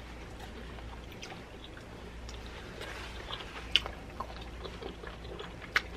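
A person chewing food with the mouth close to the microphone: soft wet mouth sounds broken by scattered small clicks, the sharpest two a little before four seconds and near the end.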